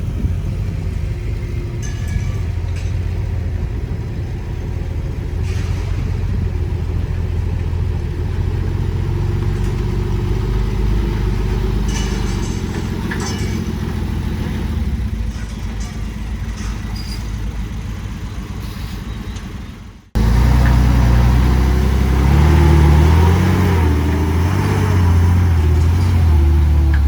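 Heavy diesel machinery engine running steadily, with a few faint knocks. About twenty seconds in the sound cuts abruptly to a louder engine whose pitch rises and falls.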